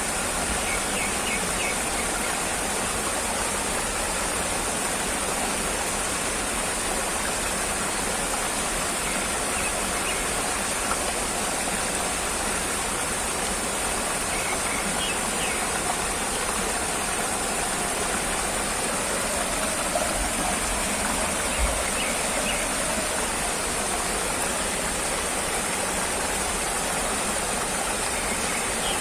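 Steady rushing noise of flowing water, unbroken throughout, with a few faint short high chirps now and then.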